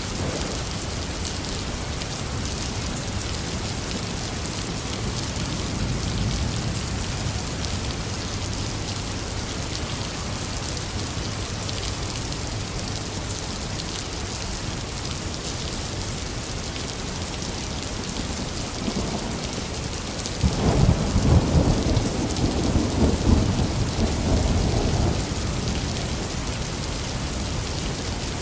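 Heavy rain falling steadily, with a long roll of thunder rumbling for about five seconds around two-thirds of the way in.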